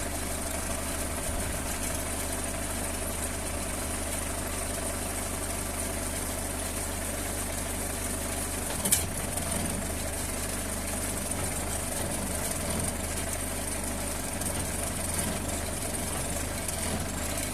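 Two-stroke chainsaw engine idling steadily, with one short sharp click about nine seconds in.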